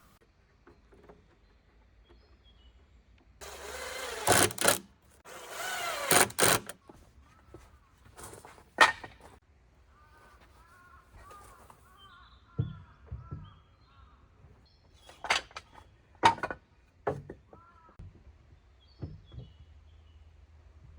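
Intermittent work noises: two short rasping bursts a few seconds in, then a run of separate sharp knocks, about seven of them. Birds chirp faintly between them.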